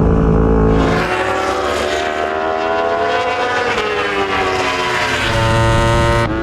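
Yamaha R1's crossplane inline-four engine at full racing revs, recorded on board, with wind rushing over the microphone. The engine note dips, then climbs steadily over the last few seconds before dropping sharply near the end.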